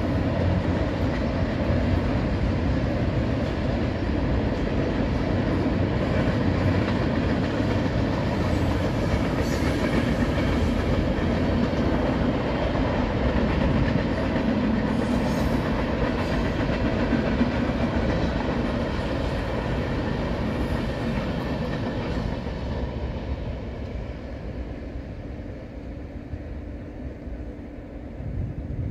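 Freight train rolling past, a steady dense rumble of steel wheels on the rails that fades away over the last several seconds.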